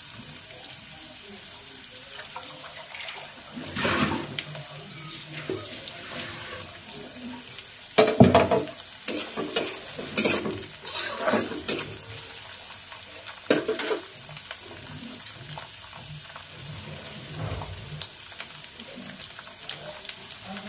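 Diced vegetables and curry leaves frying in a kadhai: a steady low sizzle, flaring into louder sizzling and clatter between about 8 and 14 seconds in, as more goes into the hot oil and is stirred.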